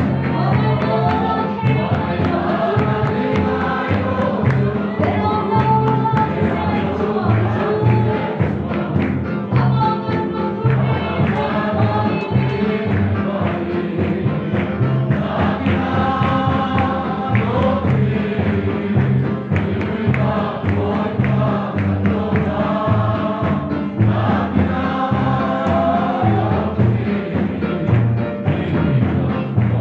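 A group of voices singing a gospel song together over instrumental backing with a bass line that moves from note to note.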